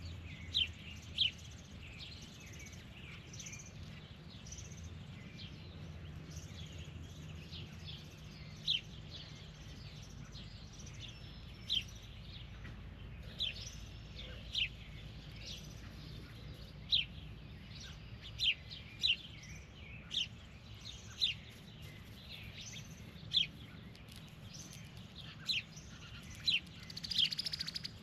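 Birds calling with short, sharp single chirps at irregular intervals, and one longer, buzzier call near the end, over a faint steady low hum.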